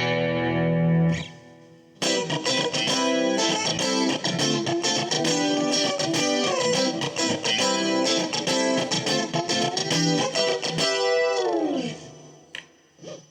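Fresher Straighter FS-331S electric guitar, a Stratocaster-style copy, played clean. A chord rings and stops, then after a short gap comes a busy run of picked notes and chords. It ends in a long downward slide, with one short note near the end.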